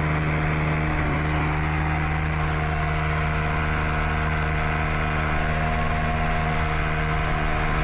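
Electric drill boring a hole into the concrete floor, its motor running steadily under light downward pressure.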